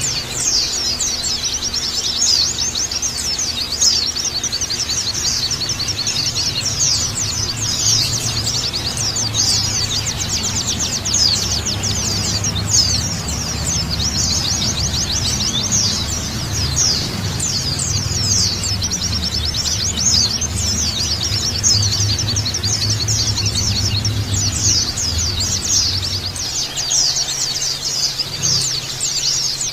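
A flock of white-eyes chirping and twittering together in quick, high, densely overlapping calls without a break, over a low hum that drops away near the end.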